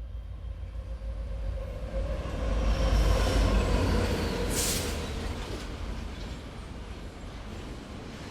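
A train going by: a low rumble of wheels on rails that swells to a peak about three seconds in and then fades, with a steady whine from the wheels and a short hiss near the middle.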